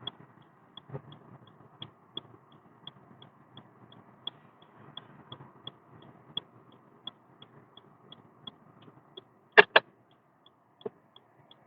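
Inside a car, a steady ticking of about three clicks a second, alternating strong and weak like a turn-signal indicator, over a low road hum. Near the end come two sharp knocks in quick succession.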